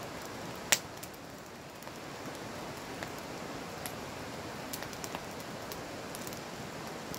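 Wood campfire burning with a steady hiss and scattered crackles, with one sharp pop about a second in.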